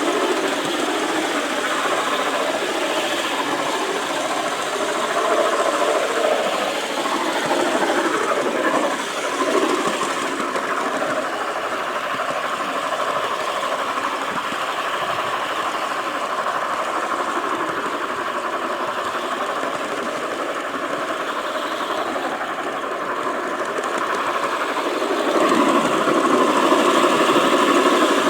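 G-scale garden-railway train running along its track, a steady mechanical rattle of wheels, rails and drive picked up by a camera riding on the rear of the train. It grows louder near the end.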